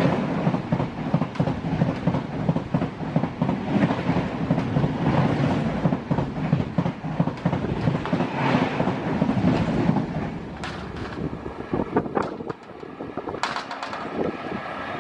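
Passenger coaches of an express train rolling past at speed: a steady rumble of wheels on rail with rapid clickety-clack. About ten seconds in the noise drops away as the last coach passes, leaving a few sharp clacks from the receding train.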